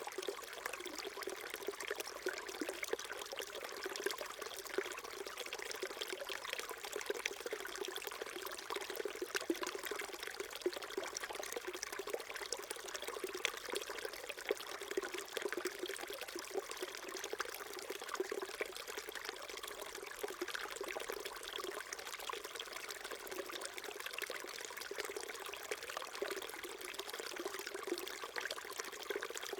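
A small mountain stream flowing steadily over rocks, a constant trickling and babbling with small splashes.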